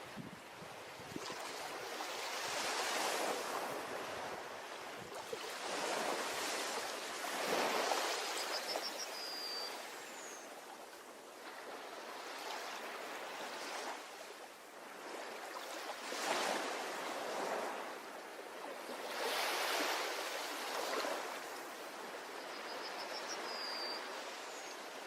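Ocean surf washing onto a beach, steady with slow swells every few seconds as waves break. A short high bird call, a quick trill ending in a falling note, sounds twice: near the middle and near the end.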